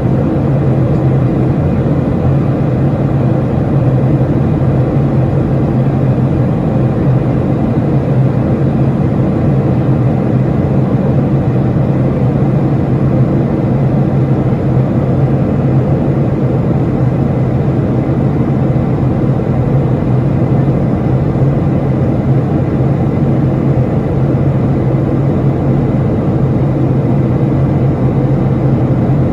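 Aircraft in flight: a steady, unchanging low engine drone.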